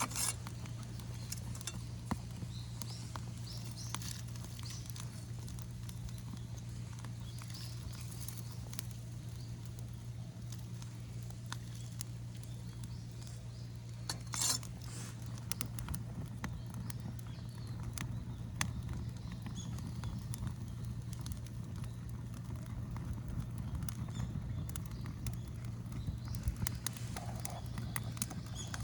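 Bonfire of household rubbish crackling with scattered small pops and one louder snap about halfway through, over a steady low rumble. The rubbish is burning poorly, which the man puts down to it being damp.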